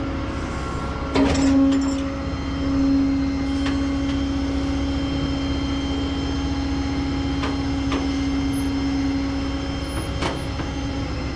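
Truck driving, heard from inside the cab: a steady engine and road rumble with a constant hum, a brief louder surge about a second in, and a few sharp clicks and knocks from the cab or load.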